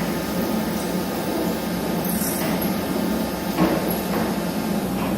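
Gun drilling machine running with a steady hum during deep-hole drilling, with a brief knock about three and a half seconds in.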